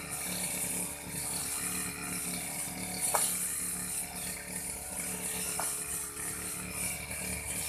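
Old Aldo brush cutter's small engine running steadily while cutting grass, with a sharp tick about three seconds in and another a few seconds later.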